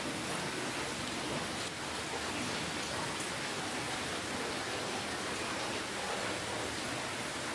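Steady rainfall: an even hiss of rain with faint individual drops ticking through it.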